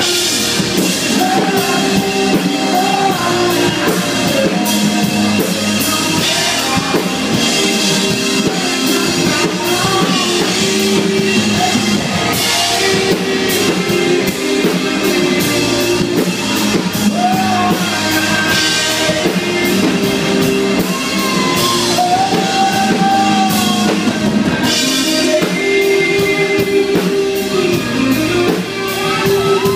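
A live band playing loud, steady rock music with drum kit and guitar, with some singing over it.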